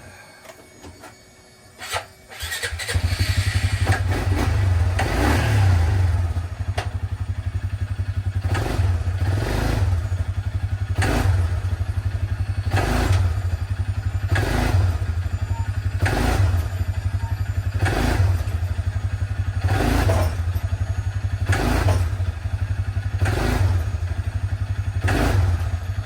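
Four-wheeler (ATV) engine starting about two and a half seconds in, then running with regular surges about once a second, as it pulls on a chain.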